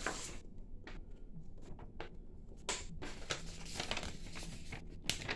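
Light handling noises: scattered soft taps and rustles, about a dozen over a few seconds, over a faint low hum.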